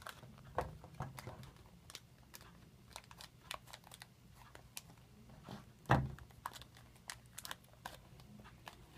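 Plastic toy packaging crinkling and clicking as it is handled and opened, with one louder knock about six seconds in.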